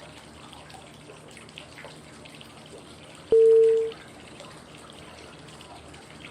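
Steady flowing-water white noise, with one short, clear cue tone at a single pitch about three seconds in. The tone is one of the prompt tones sounding every five seconds to mark the inhale, hold and exhale phases of 5-5-5 breathing.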